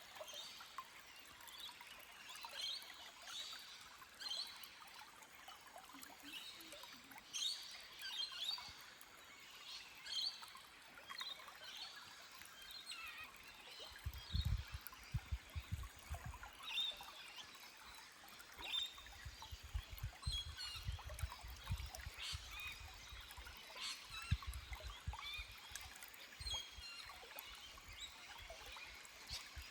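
Forest stream trickling over rocks with small birds chirping again and again. Low rumbling pulses come in about halfway through and again later.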